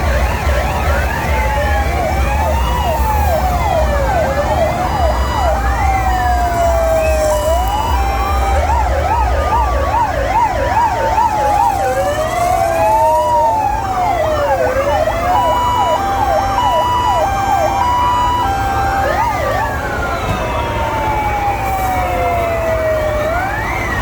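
Several fire engine sirens sounding at once, a mix of slow rising-and-falling wails, fast yelps and a two-tone hi-lo, over a steady low rumble.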